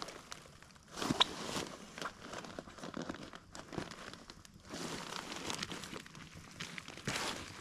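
Crinkling and rustling of camping gear and stuff sacks being handled and packed into a tent, with scattered clicks and knocks and louder bursts about a second in and near the end.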